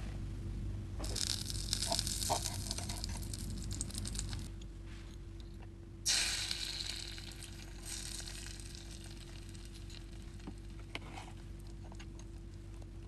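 Butter sizzling and spitting as it melts in a tiny aluminum frying pan, then a sudden louder sizzle about six seconds in as beaten egg is poured into the hot pan, fading over the next few seconds. A steady low hum runs underneath.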